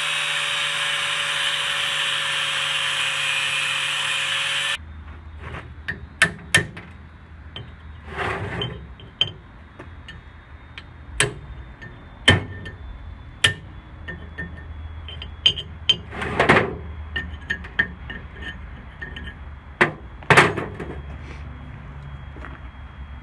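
An angle grinder runs steadily, grinding down the rivets on a Briggs & Stratton flywheel, then cuts off abruptly about five seconds in. After that come irregular sharp metal knocks: a hammer driving a chisel to knock off the rest of the rivet heads.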